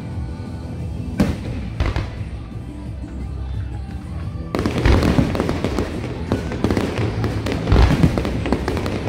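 Fireworks going off: a few separate bangs in the first half, then a sudden dense barrage of crackling pops and booms from about four and a half seconds in. Music plays along under them.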